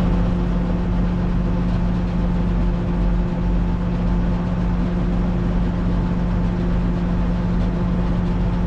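Farm tractor engine running at a steady speed with a constant hum, driving the silage blower at the silo while it waits for the next load.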